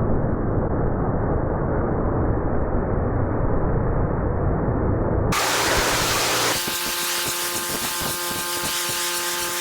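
Pressure washer running and spraying water. For the first five seconds or so it is a steady, muffled, low rumble. Then it changes suddenly to a bright hiss of spray with a steady whine of several tones.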